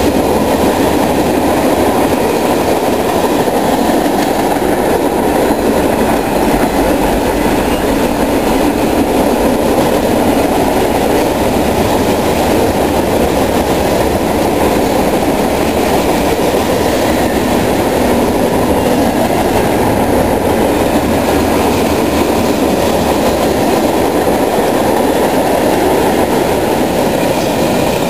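Freight train cars rolling past at track speed: a steady, loud rumble and rattle of steel wheels on the rails.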